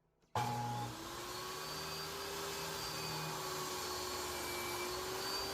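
A workshop machine's electric motor switched on and running steadily. It starts suddenly, gives a rushing noise with a hum that climbs briefly in pitch as it spins up, then holds steady.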